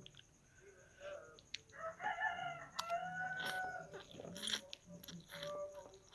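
A rooster crowing: one long call about two seconds in, among sharp clicks and slurps of noodles being eaten.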